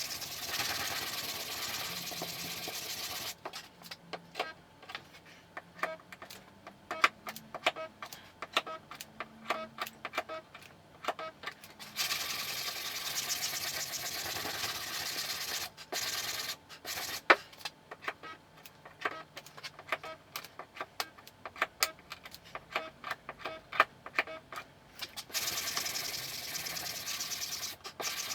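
Car body repair on sheet metal: runs of sharp, irregular metallic taps alternate with three spells of steady power-tool noise, each a few seconds long.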